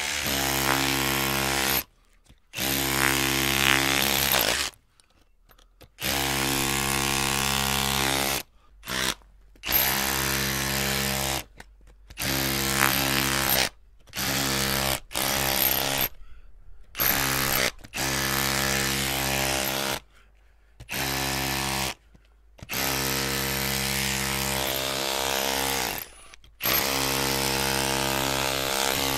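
Electric drill running in repeated bursts of one to four seconds with a steady motor whine, stopping briefly between bursts.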